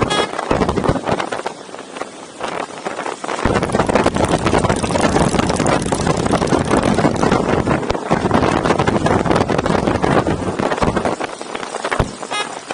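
Motorcycle engines running in a large mass ride, with rushing noise over the microphone; the low engine rumble grows louder about three and a half seconds in.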